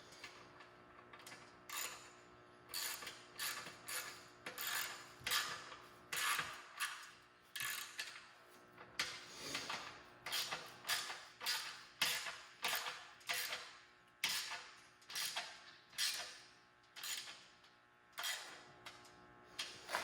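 A 10 mm socket ratchet tightening a nut on a motorcycle exhaust mount: repeated back-and-forth ratcheting strokes, about one and a half a second, each a short burst of pawl clicks.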